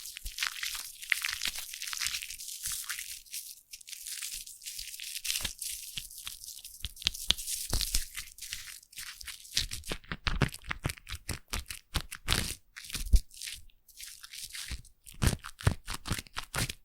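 Close-miked foam bubbles fizzing and crackling. A fine, high crackle gives way about five seconds in to sharper, louder pops and crackles.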